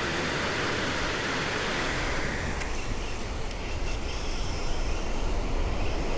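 Steady rush of wind and surf on an open beach, with wind rumbling on the microphone; the hiss eases a little about halfway through.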